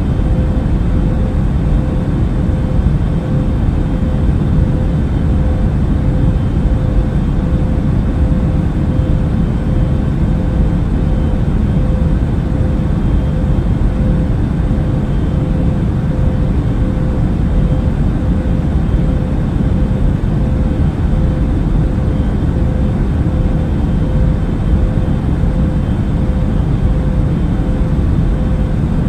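Airliner cabin noise in cruising flight: a steady low rumble of engine and air noise with a constant hum riding on it, unchanging throughout.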